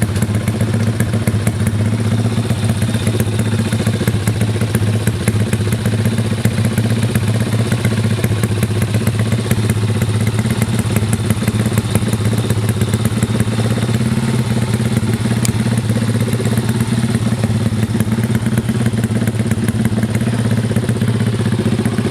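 Fuel-injected motorcycle engine idling steadily at an even pitch, with a calm, mild exhaust note close to a stock bike's.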